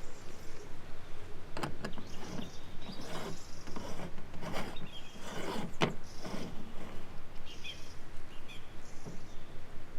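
A few seconds of rustling and scraping handling noise in the middle, with small birds chirping now and then around it.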